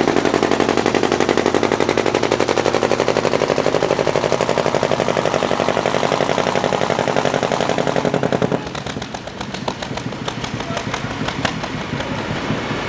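Pulling tractor's engine at full throttle under load, its open exhaust firing in a fast, even stutter. About two-thirds of the way through it drops abruptly to a quieter, slower beat as the throttle comes back.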